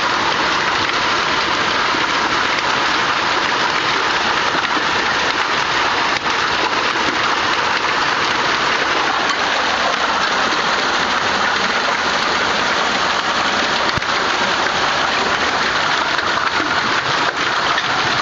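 Hailstorm: hail and heavy rain pelting down in a dense, steady hiss, with a few sharper ticks of single stones.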